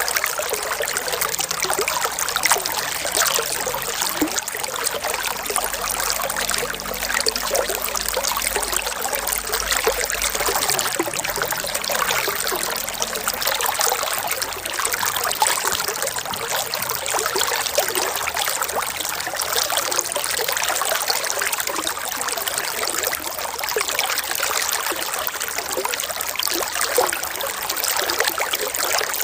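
Running water trickling in a steady, unbroken flow, as of a stream.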